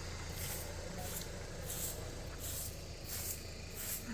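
A car engine's low hum, fading about a second in, under a faint, regular high rasping of insects that repeats about every two-thirds of a second.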